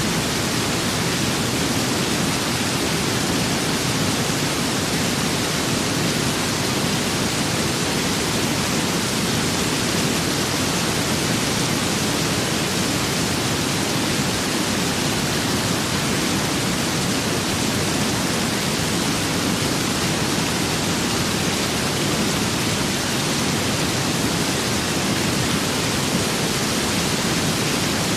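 Steady rain with wind: an even, unbroken hiss that holds at the same level throughout.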